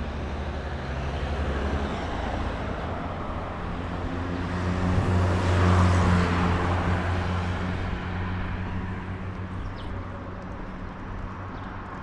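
A motor vehicle passing by: a low engine hum that grows louder to a peak about halfway through, then fades away.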